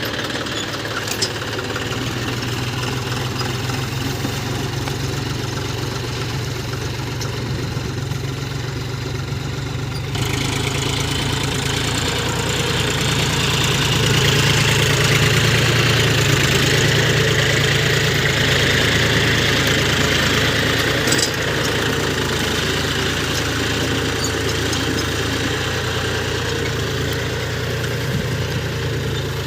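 John Deere 5050D tractor's three-cylinder diesel engine running steadily, stepping up in loudness about ten seconds in and growing louder again for several seconds after that.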